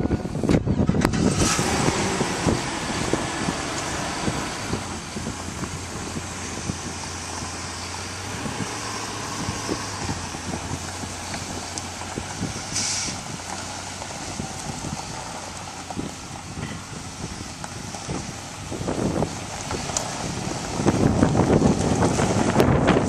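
A vehicle engine running steadily at idle, a low even hum. Wind rumbles on the microphone near the start and again near the end.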